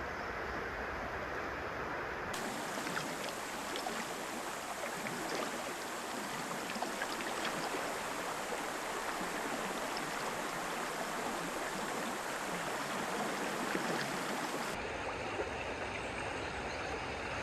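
Steady rush of river water flowing, a continuous noise without pauses.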